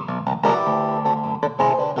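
Recently restored Hohner Clavinet D6 being played: quick, short plucked keyboard notes, with a low chord held for under a second near the middle.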